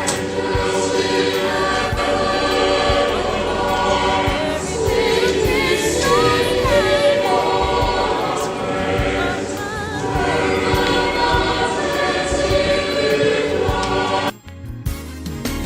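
Choir singing a gospel-style song with accompaniment; the music cuts off suddenly near the end.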